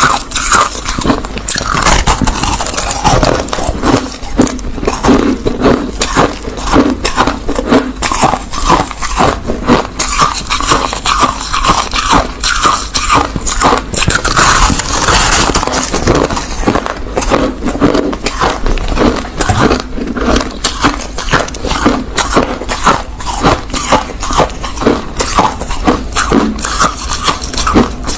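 Crushed ice being chewed: a continuous, rapid crunching of many sharp cracks with no let-up.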